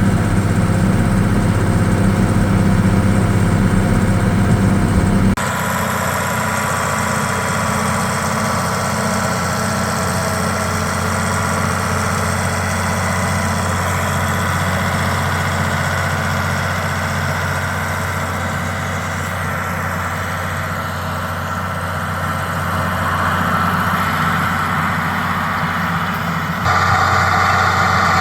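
Tractor engine running steadily. Its sound changes abruptly about five seconds in and again near the end, heavier and louder in the low end before the first change and after the second.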